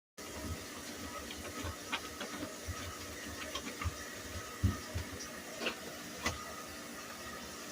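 Scattered light knocks, taps and clicks of things being handled while cleaning out a refrigerator, over a steady hiss; the two loudest knocks come a little past halfway and about two thirds of the way through.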